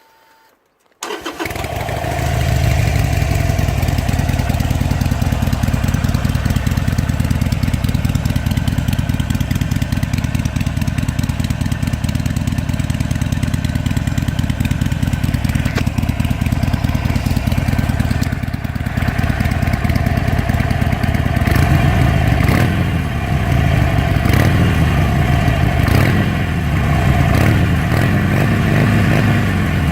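Harley-Davidson 883 Iron's air-cooled V-twin firing up about a second in through its drilled muffler, then idling loud and steady. In the second half the throttle is blipped several times, the revs rising and falling.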